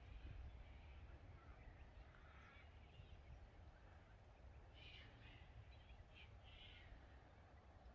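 Faint bird calls, a few short scattered calls over a low, steady rumble.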